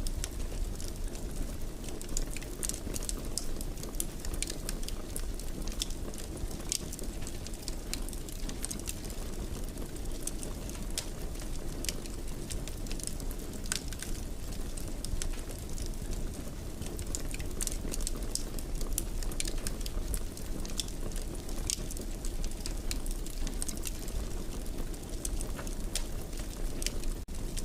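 Wood fire in a fireplace crackling, with frequent sharp irregular pops over a steady low rush of burning.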